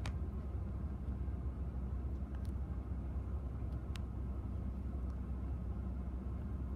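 Strong gusty wind buffeting the microphone outdoors, a steady low rumble, with a few faint clicks.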